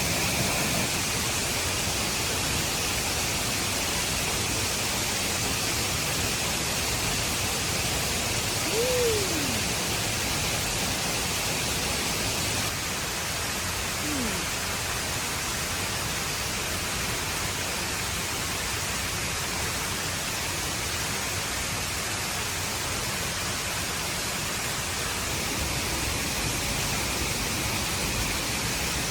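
A steady rushing noise, with two brief downward-gliding squeaks, about nine and fourteen seconds in.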